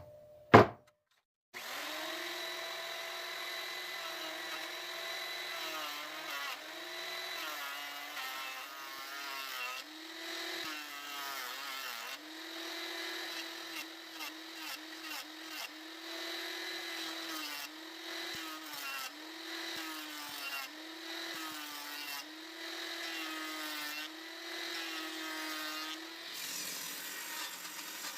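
Electric power saw cutting wood: a steady high motor whine that sags in pitch again and again as the blade bogs down in the thick boards, then recovers. It stops near the end.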